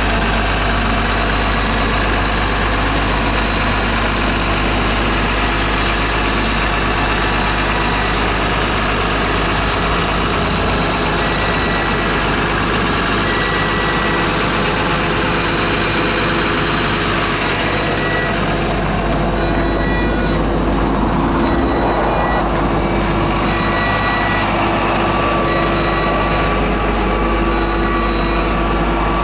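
Cat AP655D asphalt paver's Cat C6.6 diesel engine running steadily and loudly, with a change in the sound about two-thirds of the way through.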